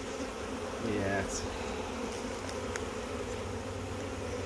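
Swarm of honeybees buzzing steadily in the air around the swarm site, many bees at once.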